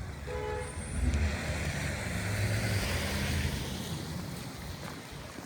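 A motor vehicle passes on a city street: engine rumble and tyre hiss swell to a peak midway and fade away, after a brief high tone near the start.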